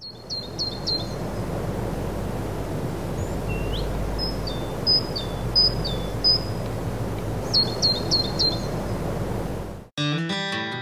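A small songbird calling in short series of high whistled notes, about four notes a series, several times over a steady low outdoor rush. Acoustic guitar music cuts in near the end.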